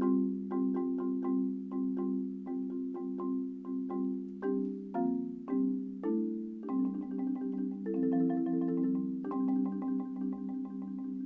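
Marimba played with four mallets: a steady stream of struck notes and chords, becoming denser about two-thirds of the way through with rolled chords that are held to the end.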